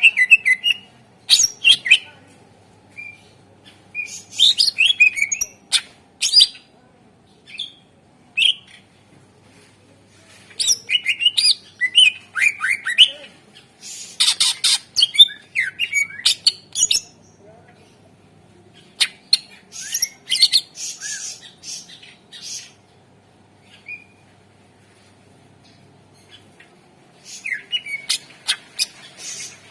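Greater green leafbird (cucak ijo) singing in bursts of rapid chirps, whistles and harsh notes, with short pauses between phrases and a longer pause of several seconds near the end.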